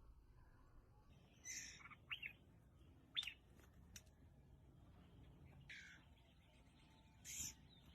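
Aviary songbirds giving faint, scattered short chirps and calls, about six spread over the few seconds, some with quick sweeps in pitch.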